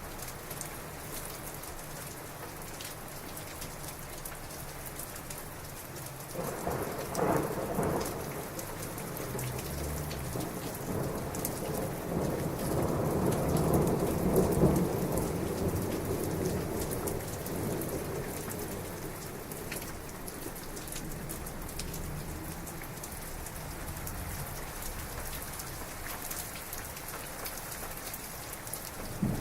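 Heavy rain falling steadily, with a thunderclap about six seconds in that rolls into a long rumble, loudest midway and fading away over about ten seconds. A fresh crack of thunder comes at the very end.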